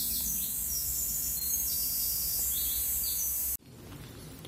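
Birds singing outdoors, repeated short high trilling phrases over a steady low background rumble; the sound cuts off abruptly about three and a half seconds in.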